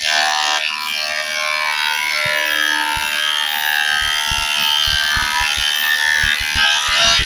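Wood planer cutting teak: a loud high-pitched whine that wavers in pitch, with a run of low knocks through the second half.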